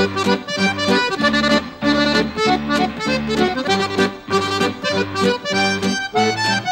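Accordion music: a brisk, bouncy tune over a steady bass accompaniment.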